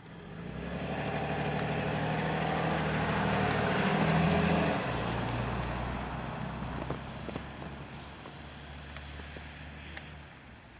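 A large vehicle driving past with its engine running: it builds up, is loudest about four seconds in, drops in pitch as it passes, then fades away.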